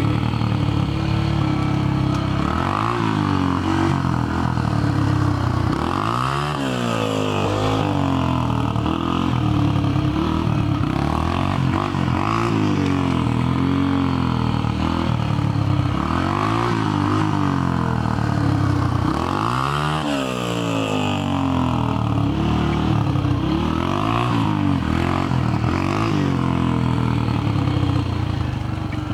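A 2000 Yamaha TTR125's air-cooled single-cylinder four-stroke engine running loud through an exhaust opened up with a washer mod, as the bike is ridden. Its revs drop and climb back every few seconds, with the throttle coming off and on again.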